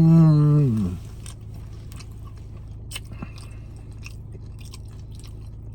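A loud, falling "mmm" of enjoyment in the first second, then close-miked chewing of nachos: loaded tortilla chips crunching in the mouth, with scattered short clicks.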